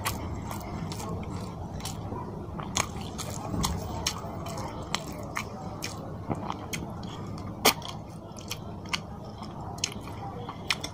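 Close-miked chewing of a mouthful of fish curry and rice, with many short mouth clicks and smacks; the sharpest smack comes about three-quarters of the way through.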